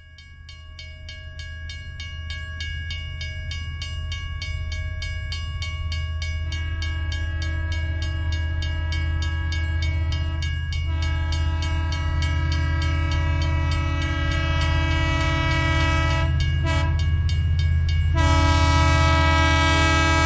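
A train running with a steady low rumble and an even, rapid clickety-clack of wheels on rail joints, fading in at the start. Its horn sounds a held chord that swells about six seconds in and is loudest near the end.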